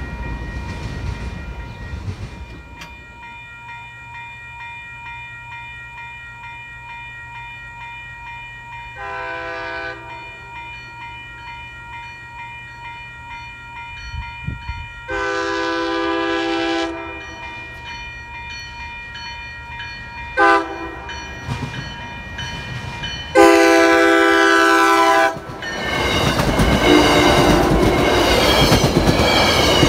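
Railroad crossing bell ringing steadily as a commuter train approaches and sounds its horn in the grade-crossing pattern: long, long, short, long. The train then rolls across the crossing with a loud rumble and clickety-clack of its wheels.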